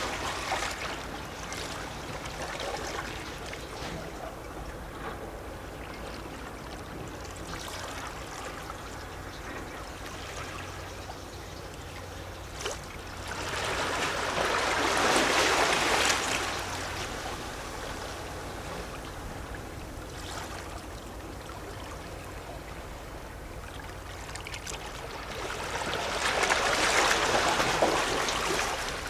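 Small sea waves lapping and gurgling against shore rocks, with a steady wash between them. Twice a larger wave comes in, swelling and fading over about three seconds, once near the middle and once near the end.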